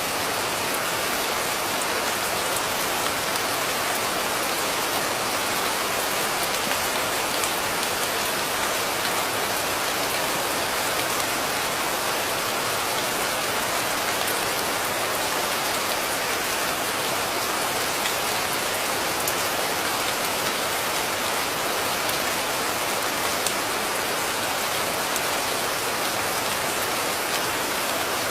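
Steady rain falling, an even hiss with faint patter of individual drops, unchanging throughout with no thunder.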